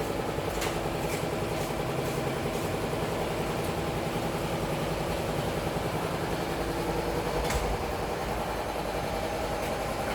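Double-head aluminium cutting saw running with a steady motor hum, with a few sharp clicks, the loudest about seven and a half seconds in.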